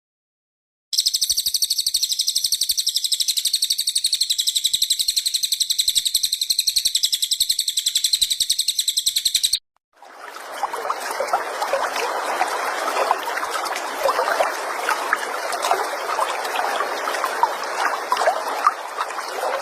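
Songbird recordings spliced together for bird-song tutoring: first a very fast, even, high-pitched trill held for about nine seconds, then, after a short break, a lower, dense, busy chatter.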